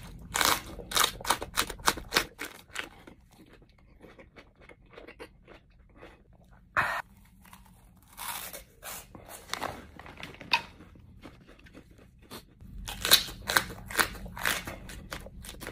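Close-up crunching and chewing of raw jalapeño peppers being bitten: a quick run of sharp crunches, then slower chewing. A few more single crunches come in the middle, and a new loud cluster of crunching bites starts near the end.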